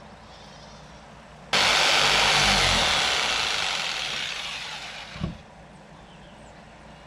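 Power saw cutting through a wooden board: it starts abruptly about a second and a half in and tapers off over about four seconds, ending with a short thump.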